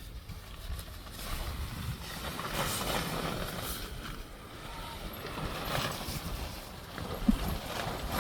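Strong beach wind buffeting the microphone: a low rumble with gusts that swell and fade, and one short thump near the end.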